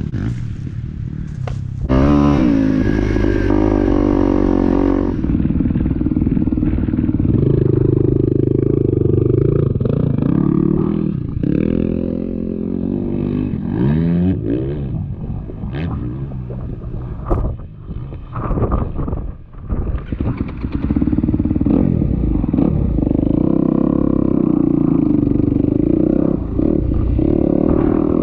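Kawasaki KX250X four-stroke single-cylinder dirt bike engine under way, revving up and falling back again and again as it is throttled and shifted. About halfway through the engine note breaks up into choppy off-throttle bursts with a few knocks, then it pulls steadily again.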